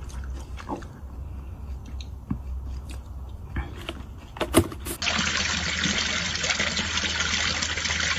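A quiet low hum with a few scattered clicks, then about five seconds in a steady hiss of running water starts and keeps going.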